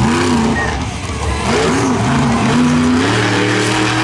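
Monster truck's engine revving in a few quick rises and falls, then held at high revs near the end.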